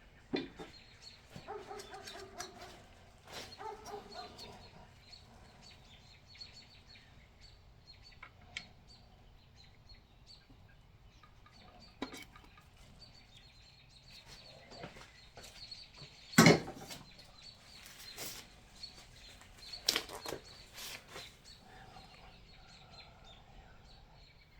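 Faint bird calls, with a few sharp knocks or clanks, the loudest about two-thirds of the way in.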